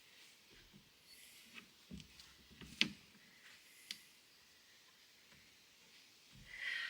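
A few faint, scattered clicks and small knocks in a quiet small room, the sharpest about three seconds in, with a short hissing rustle near the end.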